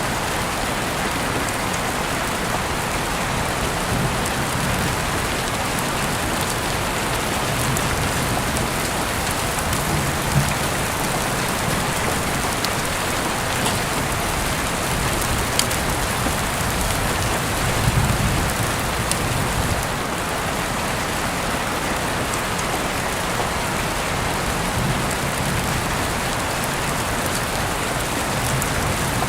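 Heavy rain falling steadily, with scattered sharp drips hitting a surface and a brief low swell about two-thirds of the way through.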